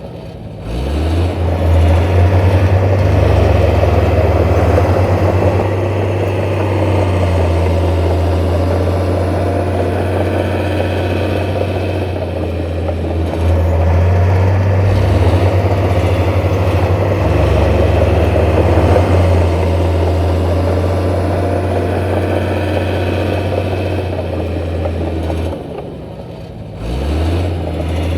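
Heavy diesel engine of earthmoving machinery running steadily under load. It eases off briefly just after the start and again near the end, then picks up again each time.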